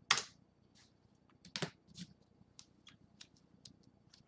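Scattered light clicks and short rustles, with a louder rustle just after the start and another about a second and a half in.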